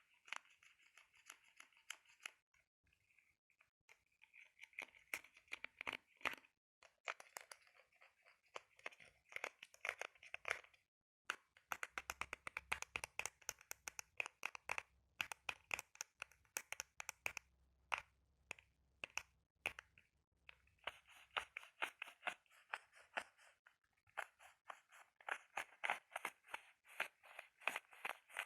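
Close-up ASMR scratching and tapping on an object: quick runs of scratch strokes mixed with sharp little clicks, with brief pauses about three seconds in and near the middle.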